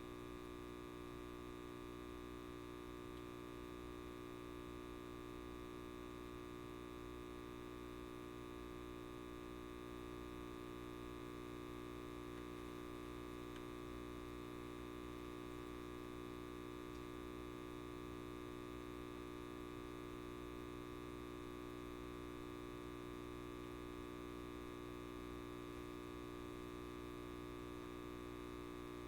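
Steady electrical buzz of a light bulb, an even mains hum with many overtones that does not change.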